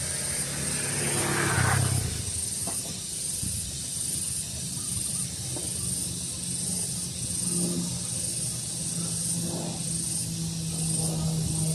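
Outdoor daytime ambience: a steady, high-pitched trill that pulses on and off, over a low steady hum, with a brief swell of noise about a second in.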